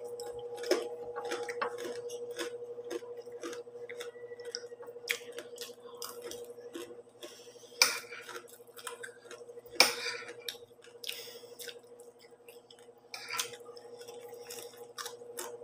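Close-up chewing of crunchy pork chicharon (fried pork rind): an irregular run of small crackling crunches with a few louder ones. A steady background hum runs underneath.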